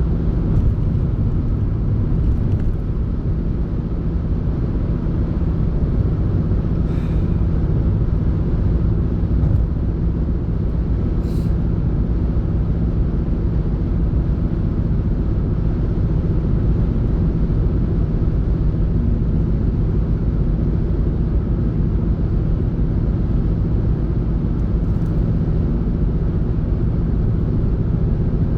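A car driving along: steady engine and road rumble heard from inside the cabin, with an even hum underneath.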